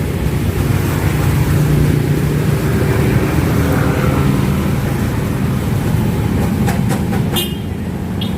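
Busy road traffic close by: a large vehicle's engine running low and loud as it passes, with a few clanks and short high squeaks near the end.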